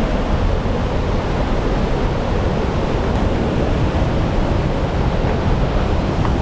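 Loud, steady rushing of a large waterfall close by, heavy in the low end.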